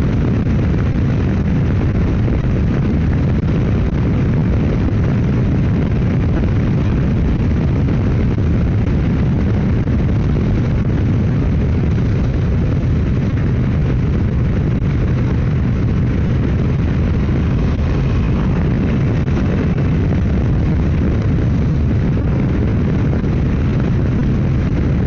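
Motorcycle riding at road speed: steady wind rush on the microphone over the running engine, with no change in pace.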